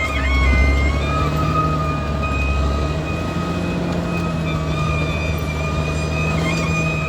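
Caterpillar D6R XL bulldozer's diesel engine running steadily under a high-pitched squeal that wavers briefly near the start and again near the end.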